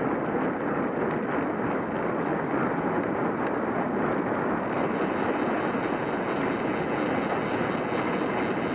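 Steady rushing noise of a bicycle being ridden: wind on the microphone mixed with tyre and road noise, even and unbroken.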